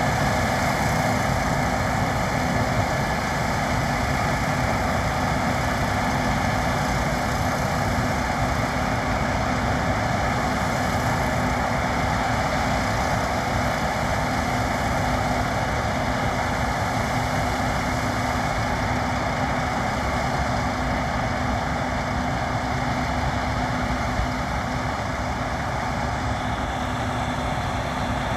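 Case IH 7150 combine harvester running steadily as it works through winter wheat: a constant engine and machinery drone with a steady hum that does not change.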